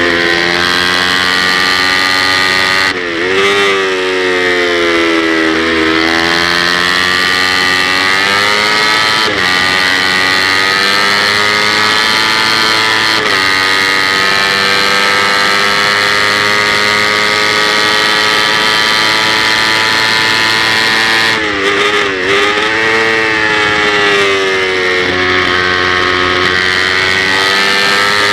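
Kawasaki Ninja 250's parallel-twin engine running hard at high revs, heard on board while racing. The pitch dips and climbs back twice, a few seconds in and again about three-quarters of the way through, as the rider brakes, downshifts and accelerates. There are short breaks in the note near a third and a half of the way through, as the rider shifts gear.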